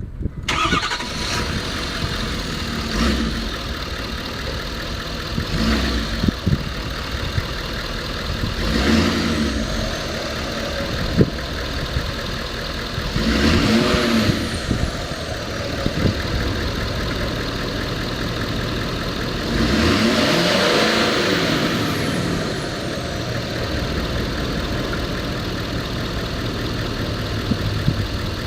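2016 Ford F-350 pickup engine starting at the outset, then idling and being revved about five times. Each rev rises and falls in pitch, and the last one, about two-thirds of the way through, is the longest and loudest.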